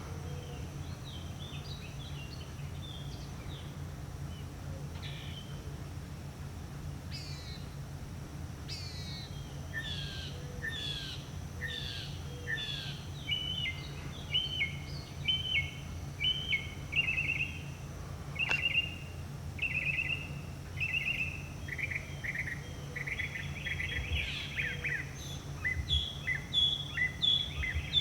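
Northern mockingbird singing a long string of varied phrases, each repeated several times before switching to the next, over a steady low hum. One sharp click comes about two-thirds of the way through.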